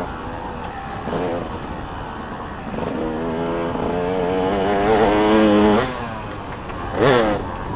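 Motocross dirt bike engines revving on the track. One engine builds for about three seconds, its pitch wavering up and down, then drops off sharply about six seconds in; another bike goes by loudly with a quick swoop in pitch near the end.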